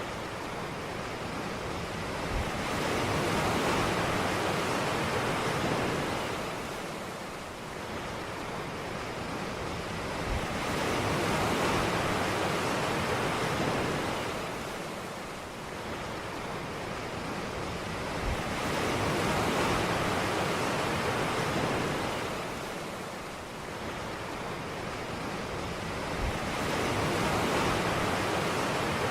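Ocean surf on a beach: waves swell in and wash back about every eight seconds, four times, each starting with a soft low thump.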